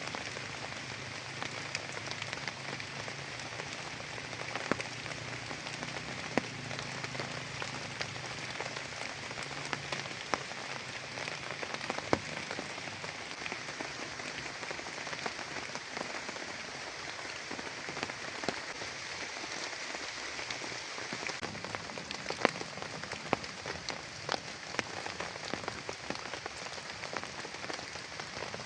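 Heavy rain falling steadily, with single drops landing close by as sharp, irregular taps.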